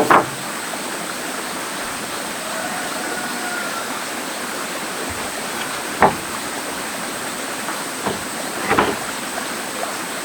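Steady rushing of flowing water, with a few sharp knocks: one at the start, one about six seconds in and a short cluster near nine seconds.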